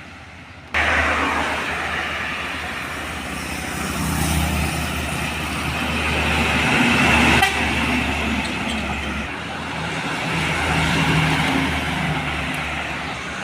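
Heavy road vehicles, large trucks and buses, passing close by with their engines running and horns tooting. The sound starts abruptly under a second in.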